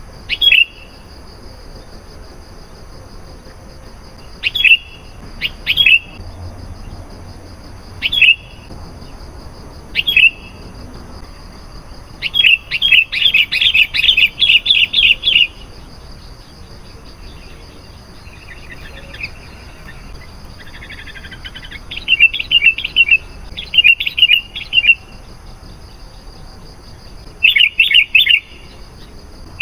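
Sooty-headed bulbul calling: short, bright chirping notes, first one at a time with pauses, then in quick rapid runs of several notes about halfway through and again near the end.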